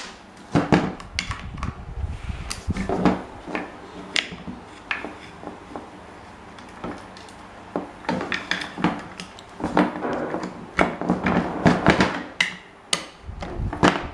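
Irregular metallic clinks and knocks of tools and old fan parts being handled and struck, with denser clusters of knocks in the middle and second half.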